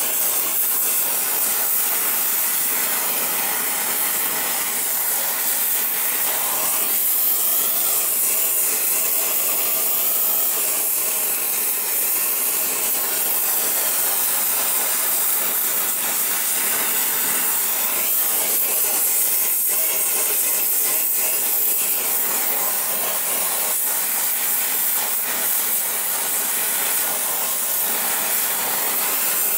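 Gas torch flame hissing steadily as it heats a seized exhaust manifold stud to cherry red to break it loose.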